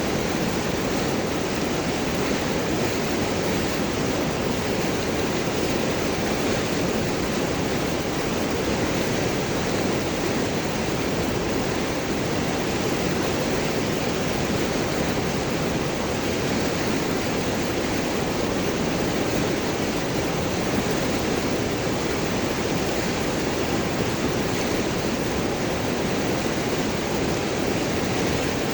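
River water rushing and gurgling over and around large rocks in a steady, unbroken flow.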